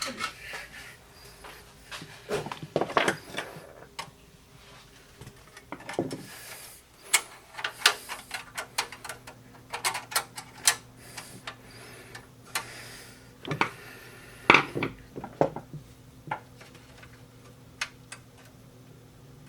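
Hands working on computer hardware inside a desktop PC case: a run of irregular sharp clicks and knocks of metal and plastic parts, with a few short scraping rubs.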